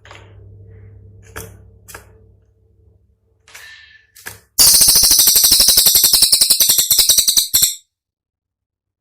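Cililin songbird calling: a few sharp single notes, then a loud, rapid rattling run of sharp high notes at about ten a second for some three seconds that stops abruptly. This fast, sharp phrase is the 'tembakan' that bird keepers play to their birds for them to copy.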